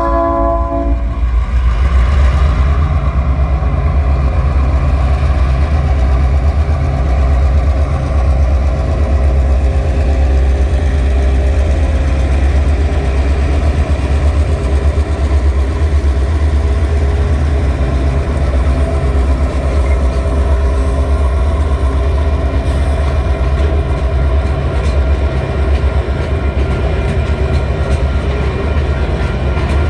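TasRail 2051 and 2054 diesel locomotives hauling a loaded coal train past. The horn cuts off about a second in, followed by a steady low engine drone and the rumble of the train. From about two-thirds of the way through, regular wheel clicks come in as the wagons roll by.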